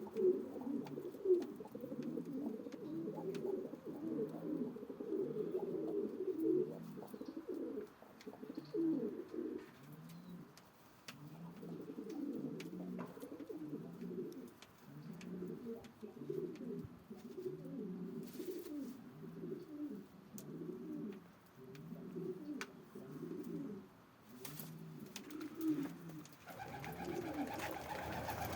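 Domestic pigeon cooing over and over, low rolling coos about once a second. A steady, higher-pitched noise comes in near the end.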